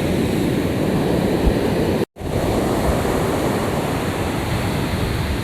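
Strong sea surf washing onto a beach, a steady rushing noise that cuts out completely for an instant about two seconds in.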